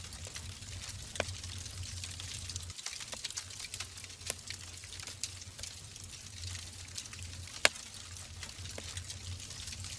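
Wood logs burning in a fireplace: a steady hiss with scattered sharp crackles and pops, the loudest pop about three-quarters of the way through, over a faint low rumble.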